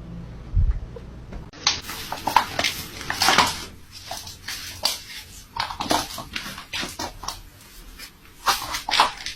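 An animal making a string of short, sharp vocal sounds at irregular intervals, starting about a second and a half in. A low thump comes about half a second in.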